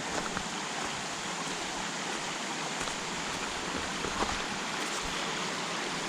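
Mountain creek water rushing steadily over rocks at a crossing point.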